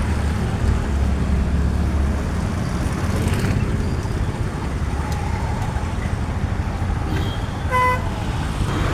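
Motor vehicle engine running with a steady low rumble, and a short horn toot near the end.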